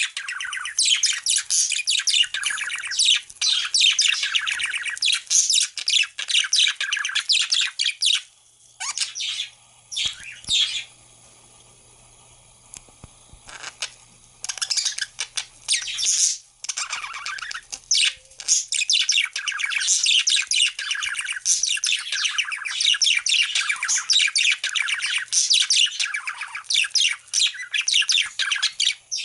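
Several pet budgerigars chirping and warbling in rapid, dense chatter. A lull of several seconds, with only a few scattered calls, falls about a third of the way in before the chatter picks up again.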